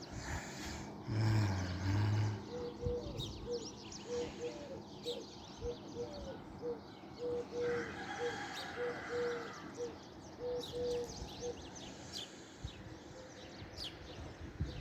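Small birds chirping over open-air background, with a cow mooing about a second in and a run of short, evenly repeated call notes through the middle.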